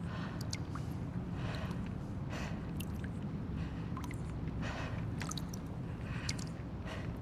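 Abandoned-building ambience soundscape: a steady low rumble under scattered small clicks and ticks, with soft hissy swells about once a second.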